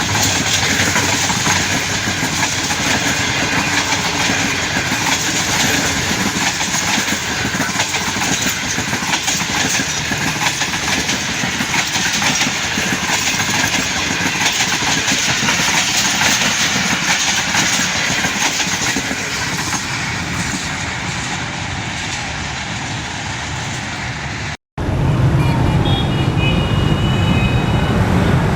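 Train running past on the rails with a steady rumble and wheel clatter. About three-quarters of the way through it cuts off abruptly to a louder, deeper rumble.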